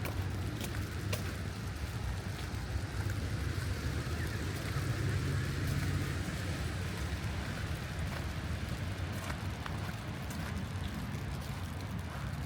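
City street ambience: a steady low rumble of traffic, with one vehicle passing that swells and fades in the middle. Scattered small ticks run through it.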